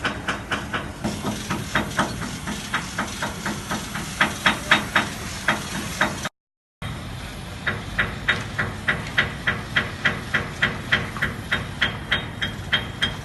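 Repeated hammer blows on metal, about three to four strikes a second, each with a short ring, over a steady hiss of work noise. The hammering breaks off in a brief silence about six seconds in, then resumes.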